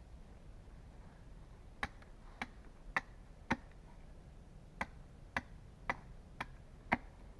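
Repeated sharp knocks: four strikes about half a second apart, a short pause, then five more at the same pace, over a low steady rumble.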